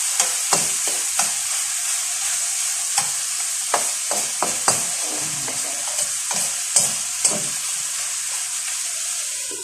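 Chicken sizzling as it fries in a pan, with a steady hiss. A spatula or spoon scrapes and taps against the pan about a dozen times at irregular intervals as the chicken is stirred.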